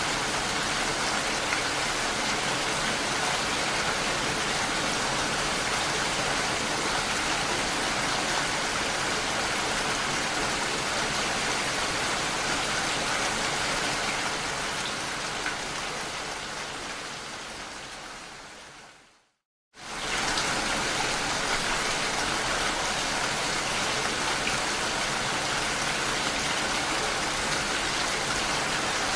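Steady rain falling, an even hiss, fading out over several seconds midway to a moment of silence, then cutting back in suddenly at full level: the join of a looped rain recording.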